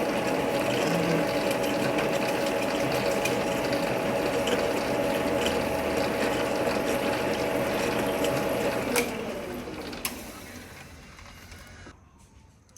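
Metal lathe running steadily with a whine from its gearing, then switched off with a click about nine seconds in and coasting down, the whine falling in pitch as it winds to a stop.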